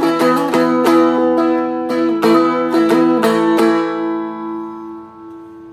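Seagull Merlin, a four-string diatonic strumstick, strummed in chords over a steady ringing drone note, several strums a second. The last strum comes about three and a half seconds in and is left to ring out and fade away.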